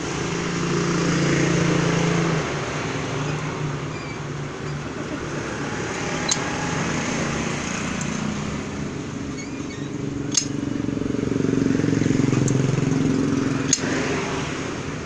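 Motorcycle engine running through a modified Jarakosta aftermarket exhaust, its note swelling as it is revved twice, about a second in and again near the end, with a few sharp clicks in between.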